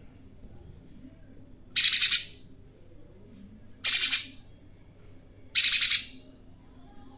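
Spiderhunter giving three loud, harsh calls, each about half a second long and roughly two seconds apart.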